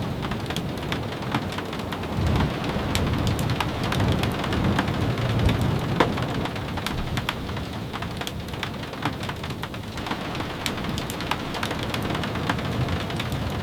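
Steady rain, dotted with frequent sharp ticks and pops, and a low rumble that swells and fades in the first half.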